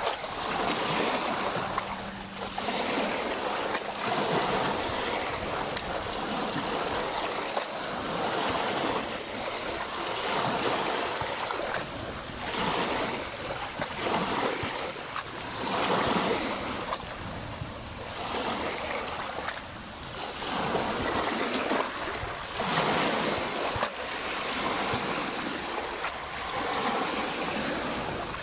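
Small lake waves washing against the shore, one wash after another every two seconds or so.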